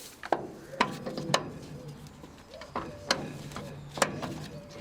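A series of sharp metallic clicks and clacks, about half a dozen spread unevenly, as the header's connectors are plugged into the combine harvester. A faint low hum runs underneath.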